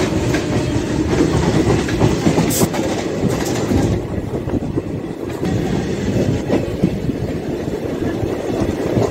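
DEMU passenger train gathering speed just after leaving a station, heard from its open doorway: a steady running noise with wheels clattering over the rail joints.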